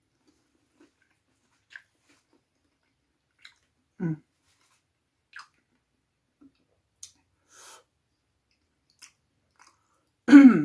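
Close-miked eating sounds: sparse soft mouth clicks and chewing, with a brief throat or voice sound about four seconds in and a louder one right at the end.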